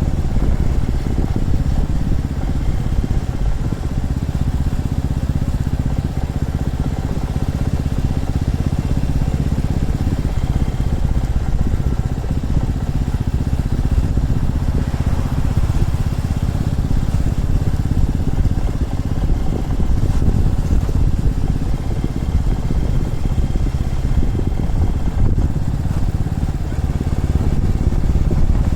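Single-cylinder motorcycle engine running steadily while riding along, with an even hum of wind and road noise over it.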